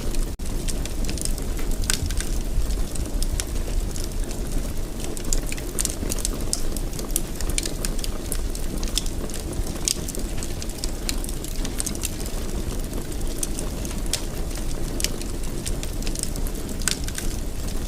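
Wood fire burning in a fireplace: a steady low rumble of flame with frequent irregular crackles and pops, and a momentary break just after the start.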